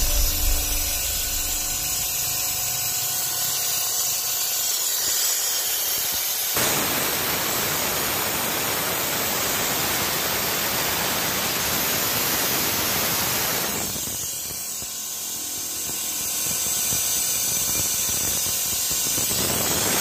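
Long hiss of a pressurised spray used in cleaning a throttle body. It is softer for the first few seconds, at its fullest from about six to fourteen seconds in, and eases before picking up again near the end.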